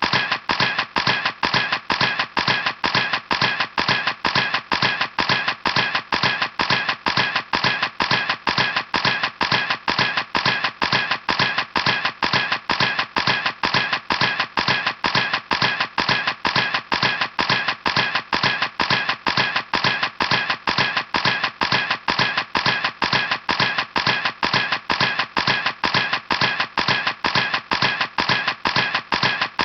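Camera shutter clicking over and over at a steady rate of about three clicks a second.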